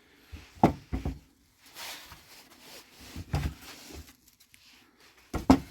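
Knocks and clacks from handling the wooden bird feeding station and its plastic feeders: single knocks about half a second and a second in, another about three and a half seconds in, and a quick double knock near the end, the loudest, with light rustling between.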